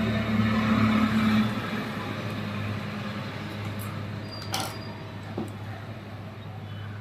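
A steady low hum, louder for the first second and a half and then quieter, with a sharp click about four and a half seconds in.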